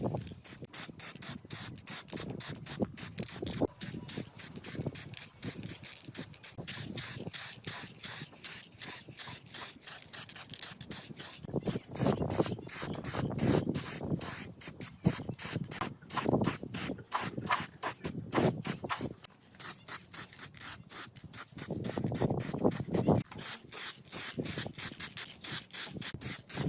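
Rapid back-and-forth hand strokes of an abrasive tool rubbing against a part, about four strokes a second, a scrubbing or filing sound, with louder stretches midway and near the end.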